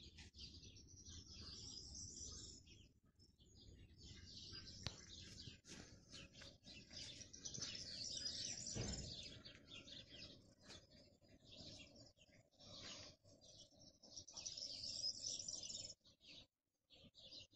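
Small birds chirping and twittering faintly in quick, dense runs.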